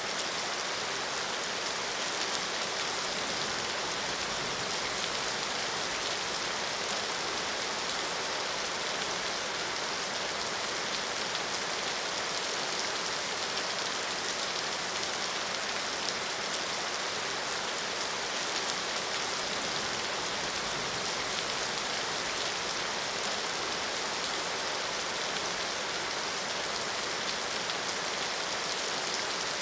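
Steady, even rain falling, its patter hissing without let-up or change.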